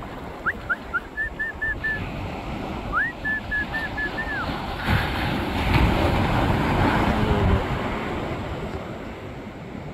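Wind buffeting the microphone over the wash of surf, loudest between about five and seven and a half seconds in. In the first half a bird calls twice, each a quick rising note followed by a run of short repeated piping notes.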